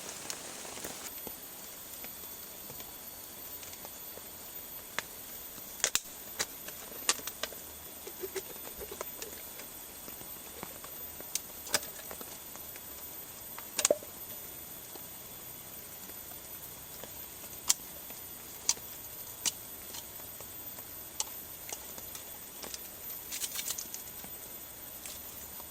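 Steady rain with irregular sharp ticks and taps of drops, a dozen or so scattered through, with a short cluster near the end.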